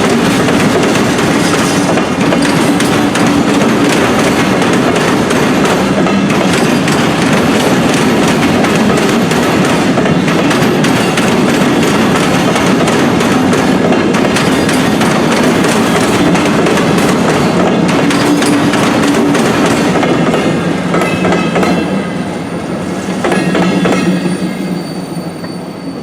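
Freight train rolling past, its wheels clattering steadily over the rail joints. The sound drops away about three-quarters of the way through, swells briefly, then fades as the train passes.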